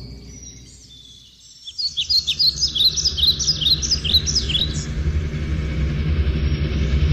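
Background music fading away, then birds chirping in quick, repeated short calls for a few seconds from about two seconds in, over a steady low rumble of outdoor background noise.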